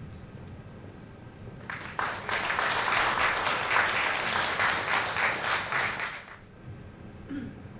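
Audience applauding for about four seconds, starting about two seconds in and dying away.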